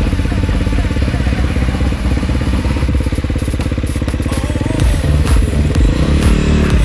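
Enduro motorcycle engine running while riding, its note shifting in pitch about five seconds in. Sharp clicks and knocks join it near the end.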